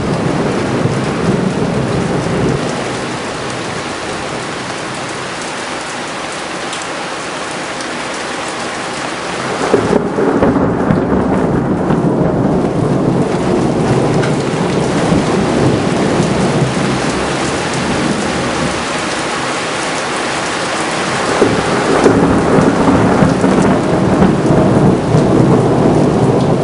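Thunderstorm: steady rain with long rolls of thunder. One roll breaks in suddenly about ten seconds in and another about twenty-one seconds in, each rumbling on for several seconds.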